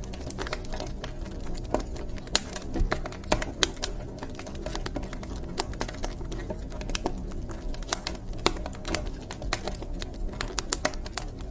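Wood fire crackling in a fireplace: irregular sharp pops and snaps, several a second and some louder than others, over a steady low rumble of the burning logs.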